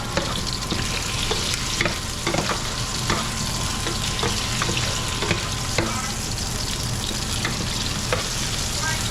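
Garlic and onions sizzling in hot oil in a pan, browning before the meat goes in, with a spatula or spoon stirring and clicking against the pan every second or so.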